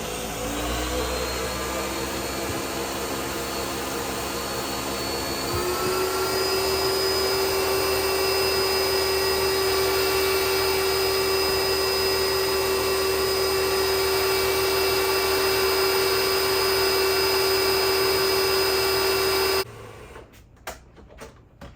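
Electric blender puréeing canned chipotle peppers in adobo sauce with honey. The motor's pitch rises over the first several seconds as it spins up and then holds steady, before it cuts off suddenly near the end, followed by a few light clicks.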